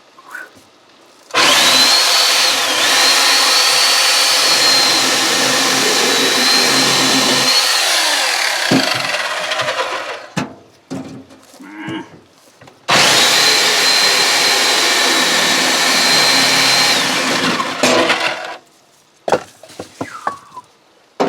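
Corded electric chainsaw cutting firewood in two runs of several seconds each, a loud steady high whine that dips briefly under load early in the first cut, then winds down after each.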